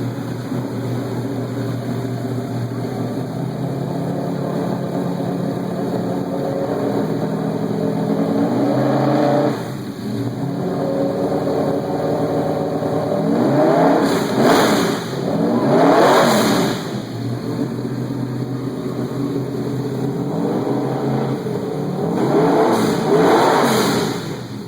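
BMW race car engine revving: held at slowly climbing revs, then dropping sharply about nine seconds in, followed by quick rev blips twice in a row and again near the end.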